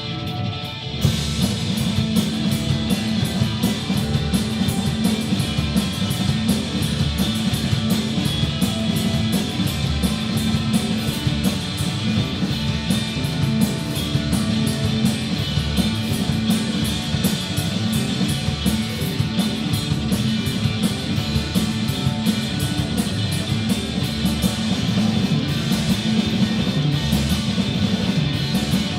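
Rock band with electric guitars, bass and drum kit playing live. A guitar plays alone at first, and the full band comes in together about a second in and drives on steadily.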